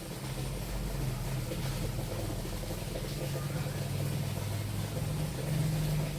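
A low, steady engine hum that swells slightly about half a second in.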